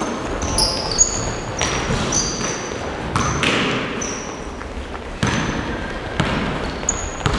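A basketball game on a hall floor: a ball bouncing in irregular thuds, with short high squeaks from sneakers on the court.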